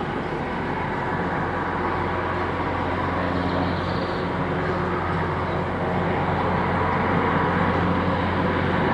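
Airbus H225M helicopter's twin turboshaft engines and rotors running steadily: a constant low hum under a turbine whine, slowly growing louder.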